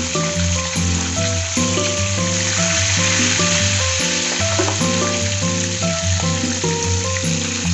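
Food frying in hot oil with a steady sizzle, under background music with a stepping melody.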